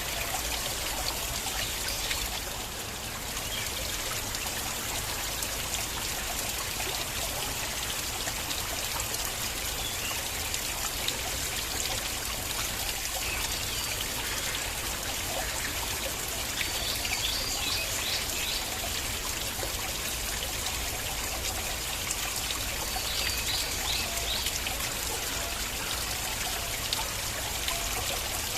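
Stream water flowing and trickling steadily. Twice in the second half comes a brief cluster of high ticking sounds over the water.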